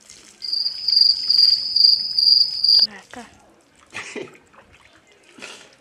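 A loud, high-pitched, pulsing trill like a cricket's, lasting about two and a half seconds and cutting off abruptly. Two short, softer noises follow later.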